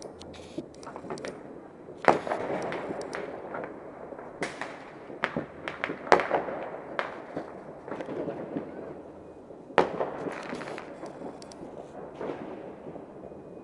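New Year fireworks going off in a steady barrage: irregular bangs and crackling pops, with the loudest booms about two, six and ten seconds in, each trailing off in a rumbling echo.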